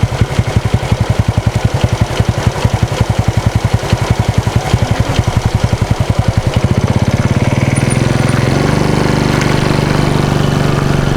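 Motorcycle engine running at low speed with an even pulsing beat, then picking up speed about six and a half seconds in to a smoother, higher steady note.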